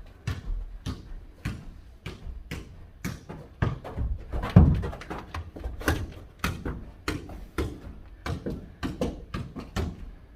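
Soccer ball kicked back and forth and bouncing on the floor in a mini foot volleyball (jokgu) rally: a run of sharp thuds, about two a second.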